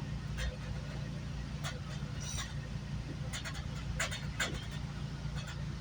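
GO Transit passenger train heard from inside the coach: a steady low rumble with irregular sharp clicks and rattles as it comes into a station.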